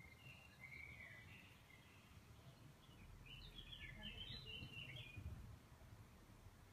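Faint bird chirping, in two short phrases: one at the start and a busier one from about three to five seconds in.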